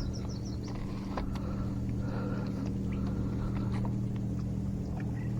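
A steady low motor hum holds at one pitch throughout, with scattered light clicks and knocks while a small bass is netted.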